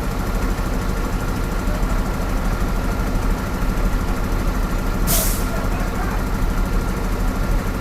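Heavy diesel engine running steadily, with one short, sharp hiss about five seconds in.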